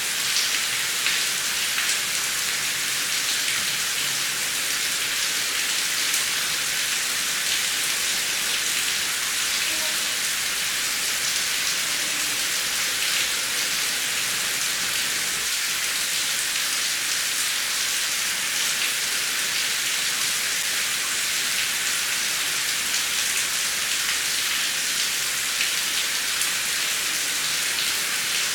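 Heavy rain falling steadily, a dense even hiss with fine drop patter and no thunder.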